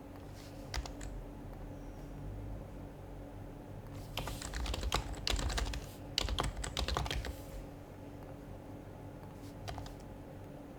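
Typing on an HHKB Professional HYBRID Type-S keyboard with silenced Topre switches. A few separate keystrokes come about a second in, then a quick run of keystrokes from about four to seven and a half seconds, then two more near the end.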